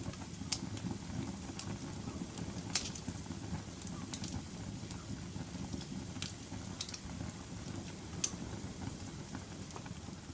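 Wood fire burning in a fireplace: a steady low rumble of flames with sharp, irregularly spaced crackles and pops.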